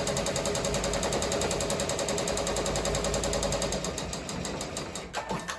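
Ricoma MT-1501 multi-needle embroidery machine stitching at speed, a fast, even mechanical chatter that slows and stops right at the end.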